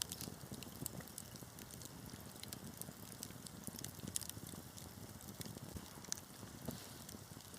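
Wood fire burning in a fireplace, crackling steadily with many small irregular pops over a soft low rumble.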